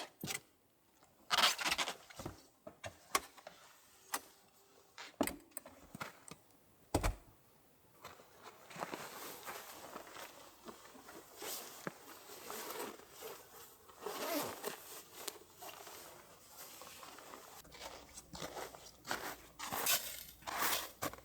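Scattered knocks and clicks, then a longer stretch of rustling and scraping: things being handled.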